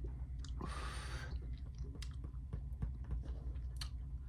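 A man taking a sip of homemade jerk sauce: a short noisy slurp about a second in, then small mouth and handling clicks over a low steady hum.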